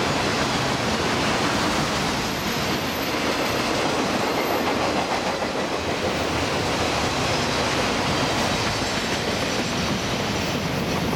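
Freight train of multilevel autorack cars rolling past: steady noise of steel wheels on the rails as the last cars go by.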